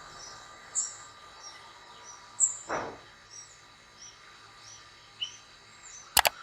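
Small birds chirping: a string of short, high chirps, with two sharp clicks just before the end.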